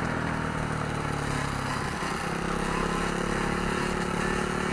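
Dirt bike engines running, more than one at a time, fairly steady with small shifts in pitch.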